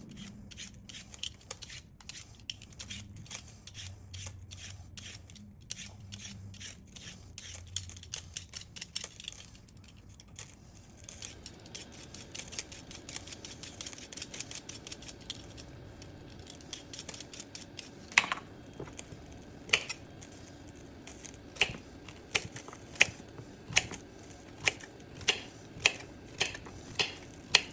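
A knife cutting carrots on a cutting board: a run of quick, light cutting strokes, then, from about two thirds of the way in, louder regular chops about one or one and a half a second.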